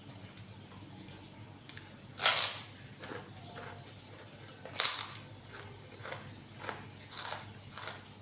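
Close-miked eating sounds of instant noodles: several short, sharp slurps, the loudest about two seconds in and another near five seconds, with small wet chewing clicks between them.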